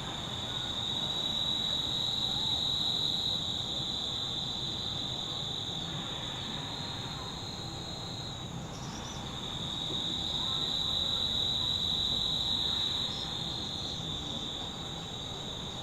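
Steady, high-pitched insect chorus, swelling louder twice and dipping briefly about halfway through, over a faint background hush.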